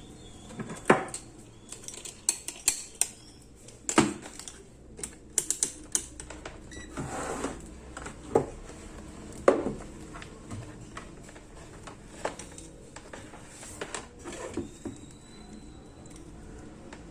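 Scattered clicks, knocks and light clatter of tools and parts being handled on a workbench, with sharper knocks about a second in, around four seconds and near the middle.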